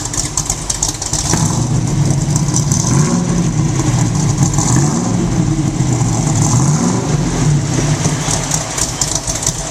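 1967 Camaro's 427 cubic inch V8 running through 2.5-inch dual exhaust and Dynamax mufflers with the electric cutouts closed. It idles, is revved up and down a few times starting about a second in, then settles back to idle.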